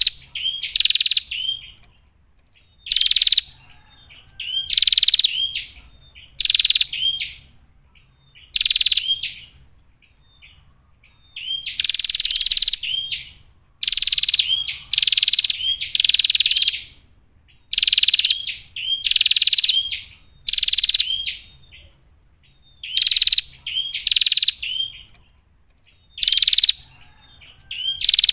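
Female bar-winged prinia (prenjak) calling: short, loud bursts of rapid high chattering notes, repeated every second or two with brief pauses between them.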